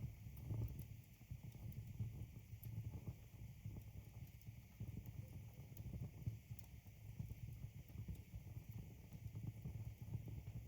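Wood logs burning in a fireplace: a faint, uneven low rumble of the flames with a few light crackles scattered through it.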